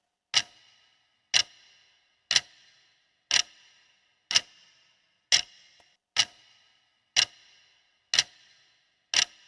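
Clock ticking about once a second, ten sharp ticks each with a brief ringing tail: a countdown-timer sound effect counting down the time to answer.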